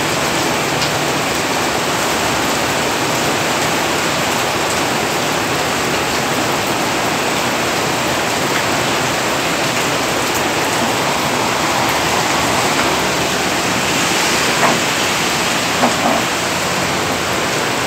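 Heavy rain falling as a steady, even hiss, with a couple of brief knocks near the end.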